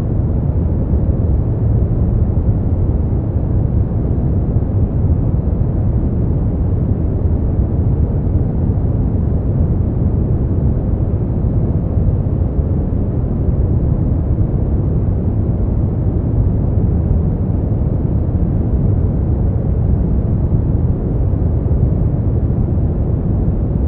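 Brown noise: a steady, deep rushing hiss, strongest in the low end and fading toward the top, with no changes or events.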